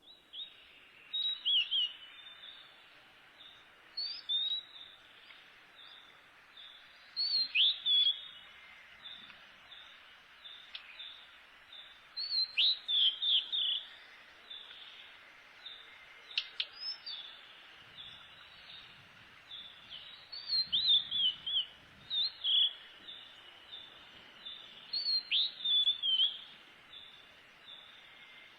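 A songbird singing short phrases of quick, falling whistled notes, repeated every few seconds. Behind it is a steady high-pitched background with a regular pulse.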